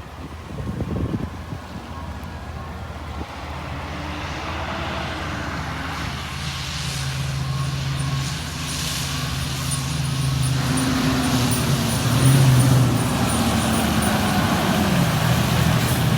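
Fire engine's diesel engine running as the truck drives, its pitch shifting with speed and dipping then rising again near the end, growing gradually louder.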